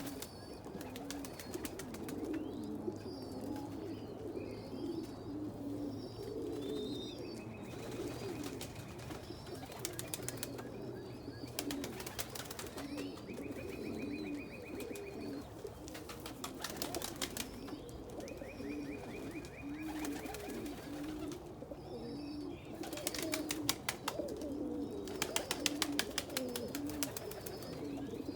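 Domestic pigeons cooing over and over in a loft, with thin high cheeping from the young squabs in the nests. Several short bursts of rapid clattering, heaviest near the end.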